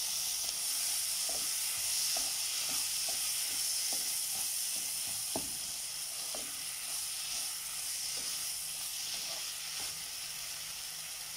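Paneer bhurji (crumbled paneer with onion, capsicum and tomato) sizzling steadily in hot oil in a pan while it is stirred. A slotted spatula makes irregular soft scrapes and taps against the pan.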